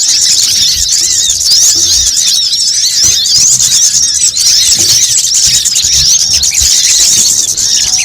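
Bird-trapping lure recording of small songbirds (kemade, sogon and brown-throated sunbird): a dense, continuous chorus of rapid, high-pitched chirps, many overlapping at once.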